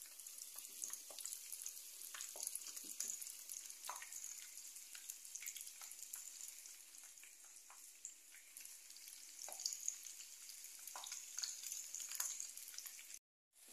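Pieces of food frying in hot oil in a frying pan: a steady high sizzle with scattered crackles and pops.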